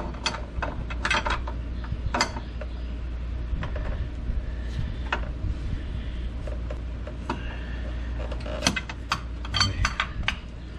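Steel wrench clinking and clicking against the transfer case's small threaded indicator switch as it is fitted and worked to break the switch loose. The sharper clinks come in a cluster near the end.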